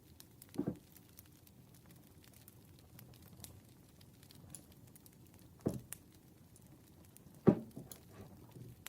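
Campfire burning: small, sharp crackles scattered over a faint steady low hiss, with three louder, deeper pops from the wood, the last the loudest.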